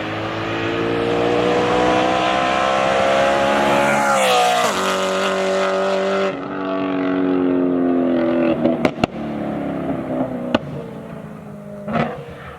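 Straight-piped BMW E90 M3's S65 V8 exhaust pulling hard with the pitch climbing, then dropping abruptly at a gear change about four and a half seconds in. After it lets off, the exhaust lets out several sharp pops and cracks.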